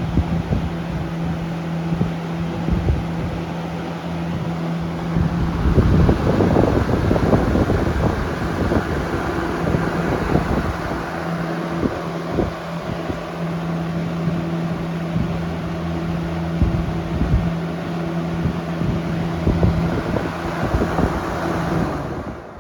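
1986 Lakewood P-223 box fan running on high speed, its airflow rushing and buffeting against the microphone over a steady motor hum. The rush drops away at the very end.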